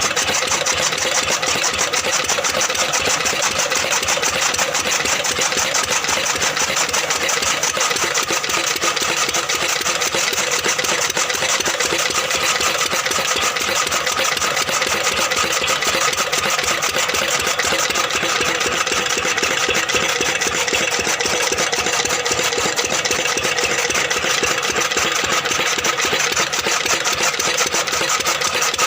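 A 10-horsepower engine running steadily with a fast, even beat.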